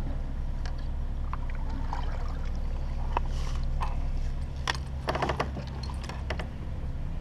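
Knocks, clicks and scrapes of handling on a kayak, with a quick rattle of clicks about five seconds in, over a steady low hum.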